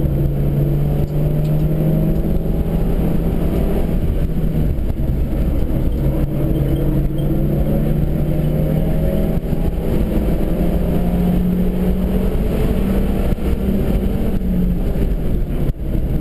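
Suzuki Swift engine pulling hard under acceleration, heard from inside the cabin with road and wind noise; its pitch rises steadily and drops back at gear changes a few times.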